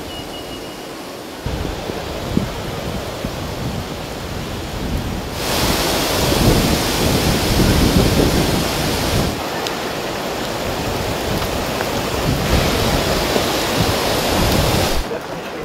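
Heavy rain falling, a steady hiss that jumps louder and quieter at several points, loudest from about a third of the way in to past halfway.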